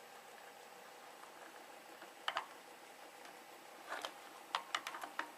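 Scattered small clicks and taps of a tiny screw and screwdriver working against the plastic pressure-switch cover: a pair about two seconds in and a quick cluster near the end, over a faint steady hum.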